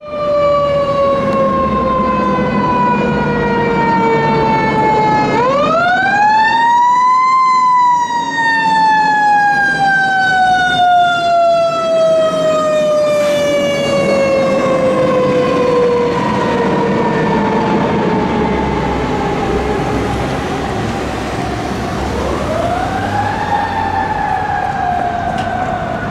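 Fire engine's mechanical siren. It is already winding down at the start, is spun up to a wail about five seconds in, and coasts slowly down for several seconds. It is spun up again near the end. The truck's engine rumbles underneath.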